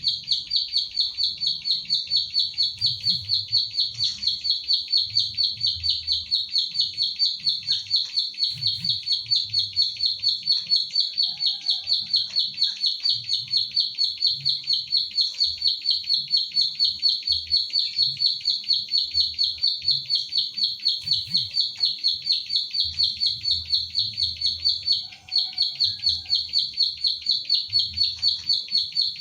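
A ciblek sawah (a prinia) calling its 'klik klik' call: a fast, even series of short, high clicking notes, about two to three a second, with one brief pause near the end.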